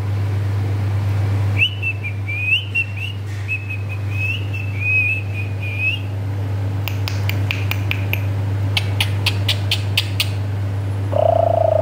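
Pet parrot whistling a high, wavering note for about four seconds, followed by a quick run of sharp clicks. Near the end comes a steady ringing tone that the owner takes for the parrot's imitation of a phone call.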